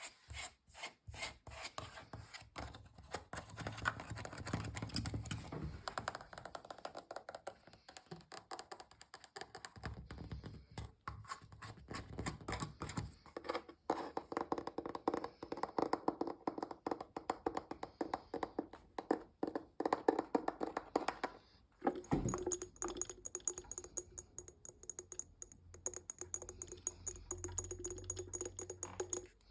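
Fast fingertip and nail tapping on a series of household objects, switching to a different object every few seconds. In the last several seconds the tapped object rings with a steady tone under the taps.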